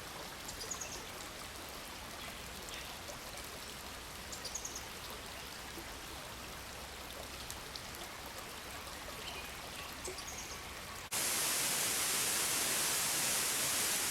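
A forest stream and waterfall rushing steadily, with a few faint, high bird chirps. About eleven seconds in, the rushing suddenly becomes much louder and brighter, as it does right at the falling water.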